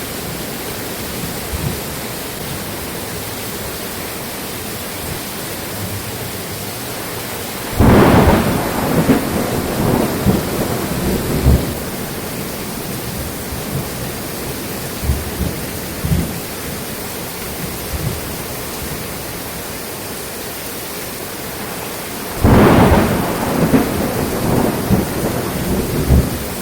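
Steady rain with thunder. Two sudden loud thunderclaps, one about eight seconds in and one about twenty-two seconds in, each rumbles on for a few seconds over the steady hiss of rain.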